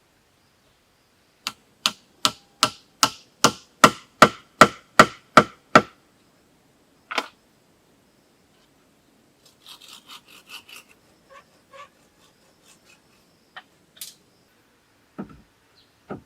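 About a dozen sharp blows on wood at roughly three a second, each with a brief ringing note, then one more blow a second later. Scattered light knocks and rubbing follow.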